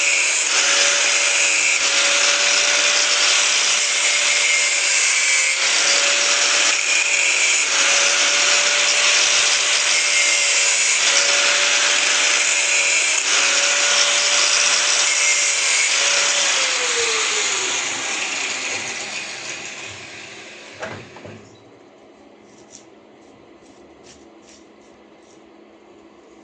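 Electric power tool running steadily under load, then switched off about sixteen seconds in, its motor pitch falling as it winds down over a few seconds. Faint ticks follow in a quiet room.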